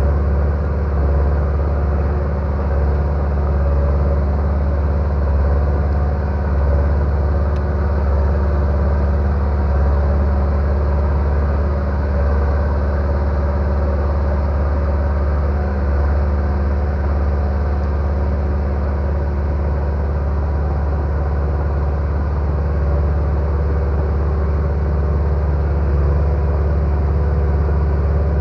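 Bulldozer's diesel engine running steadily at one constant speed, a deep low drone with no revving or pauses.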